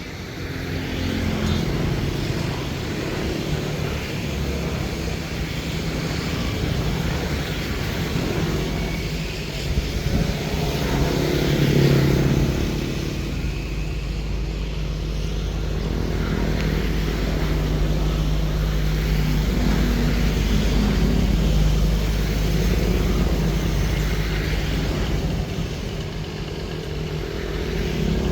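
Engine of a homemade mud suction boat running steadily at a constant speed.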